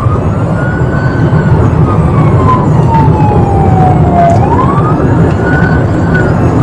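Emergency siren of a pursuing patrol vehicle in wail mode: a tone that sweeps up quickly, then falls slowly, in a cycle of about four seconds. Underneath it runs a steady low rumble of engine and road noise.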